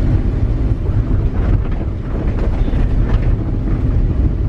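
Wind buffeting the microphone over a steady low rumble, with faint voices in the background.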